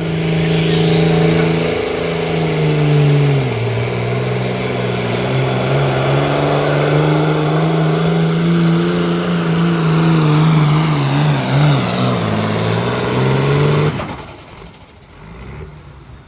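Pulling tractor with a John Deere diesel engine running hard under load as it drags the sled. The engine's pitch drops a few seconds in and wavers, with a high turbo-like whistle slowly falling above it. The engine note cuts off suddenly near the end as the pull ends.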